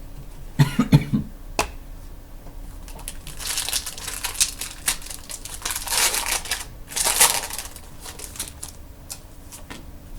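Trading-card pack's foil wrapper crinkling as it is torn open and handled, in two spells in the middle, with a few knocks and light taps of cards being handled before and after.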